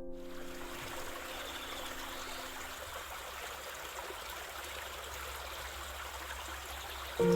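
A stream running steadily, its water trickling and gurgling, with the last held notes of soft music fading out in the first few seconds and a new chord coming in at the very end.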